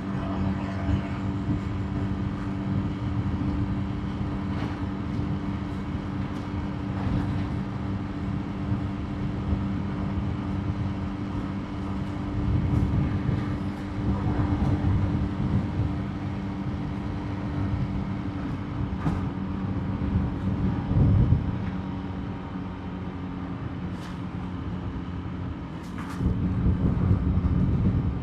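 Motorbike engine running at a steady cruise, its hum holding one pitch, under a low rumble of wind and road noise. The rumble swells a few times, around the middle and near the end.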